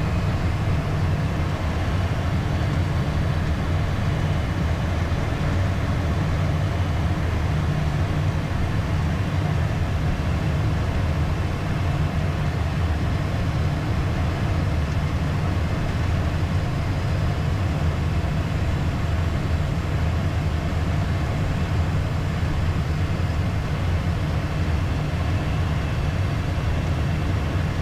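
Steady cockpit noise of a Beechcraft Premier 1A business jet on approach: a constant low rumble of airflow and engines with a hiss above it.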